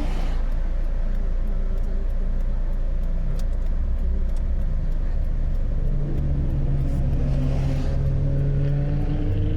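Car engine running close by with a steady low rumble, its pitch rising near the end as it speeds up.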